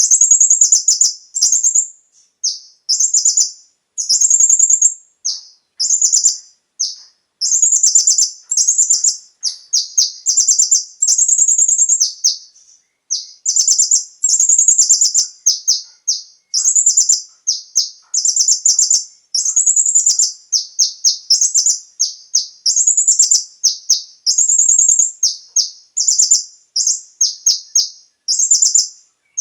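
Kolibri ninja (konin) sunbird singing: loud, high-pitched runs of rapid chirps, phrase after phrase with short pauses between them.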